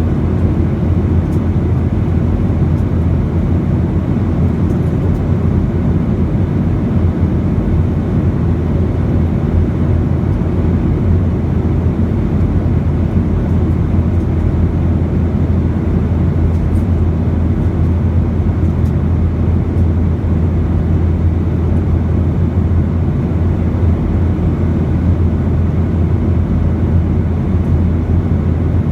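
Steady in-flight cabin noise of a Boeing 737: a constant engine and airflow rush with a strong low hum.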